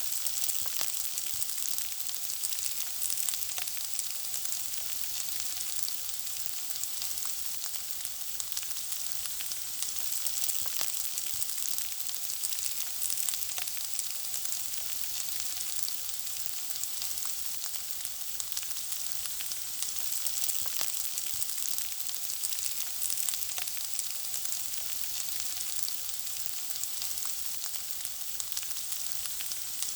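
Food frying in hot oil: a steady, even sizzle full of fine, rapid crackles and pops.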